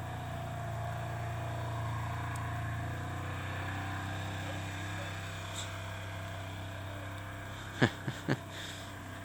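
A steady low hum with a hiss, the kind a vehicle engine makes, and three quick sharp sweeps falling in pitch about eight seconds in.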